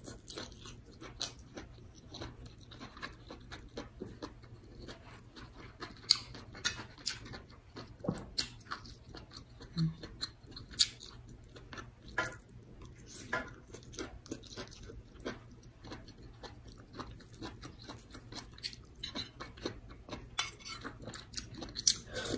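A person chewing and smacking close to the microphone while eating a vegetable stew of bitter melon and other vegetables with rice, with many irregular short clicks from the mouth and a few louder smacks.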